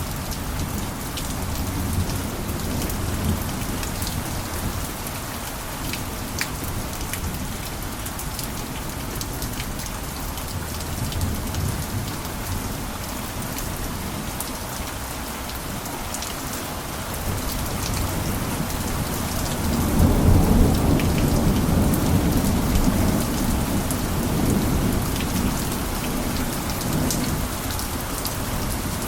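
Steady rain falling, an even hiss with scattered drop ticks, under a low rumble of thunder that swells about two-thirds of the way in and fades away over several seconds.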